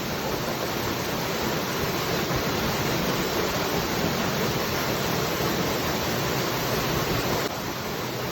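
Waterfall: water falling in a steady, even rush, dropping slightly in level near the end.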